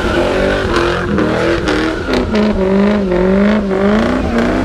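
Ford Mustang convertible's engine held at high revs during a burnout, its pitch wavering up and down as the rear tyres spin.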